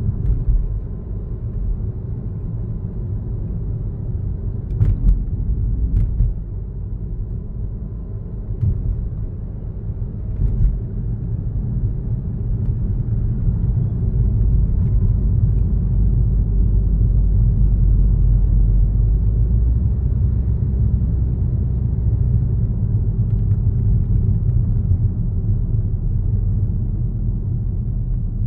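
A car driving along a road: a steady low rumble of tyres and engine, with a few brief faint clicks about five, six and ten seconds in.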